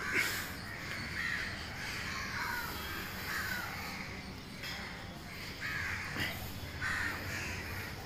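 Birds calling outdoors: several short calls at irregular intervals over steady background ambience.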